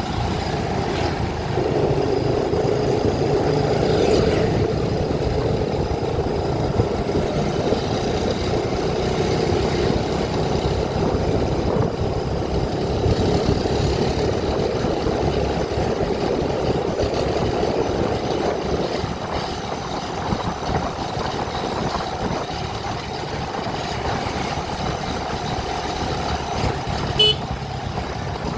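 A vehicle travelling along a road, with steady engine and road noise, and a short horn beep near the end.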